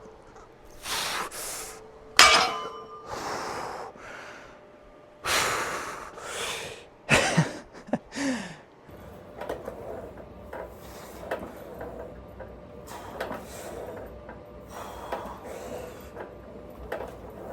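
A weightlifter breathing hard in short, forceful breaths, with a sharp metallic clank of gym weights about two seconds in; after about nine seconds only low gym background noise with small clicks remains.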